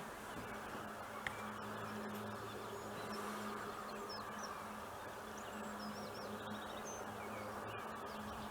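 A low, steady buzz that fades and returns, over constant outdoor background noise, with a few short, high bird chirps in the middle.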